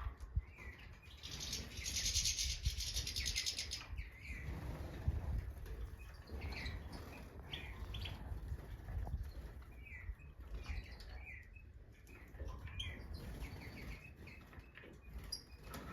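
Stieglitz Major (European goldfinch) singing and calling: a rapid buzzy twitter starting about a second in and lasting some three seconds, then short chirps scattered through the rest, over a low rumble.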